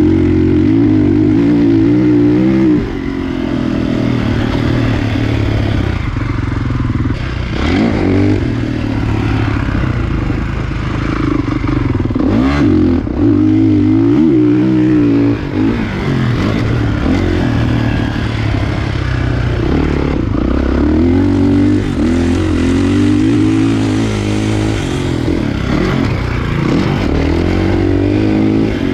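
Kawasaki KX450 four-stroke single-cylinder motocross bike ridden on track, its engine revving up and down again and again with the throttle and gear changes.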